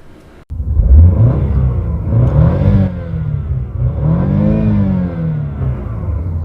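Car engine revved twice, its pitch climbing and falling back each time, then running on steadily.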